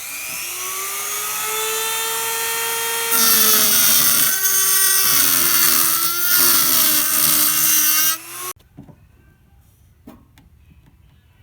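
A small rotary tool with a cutoff wheel spinning up with a rising whine. From about three seconds in it cuts into a brass PEX crimp ring, adding a loud harsh cutting noise over the whine. It stops suddenly about eight and a half seconds in.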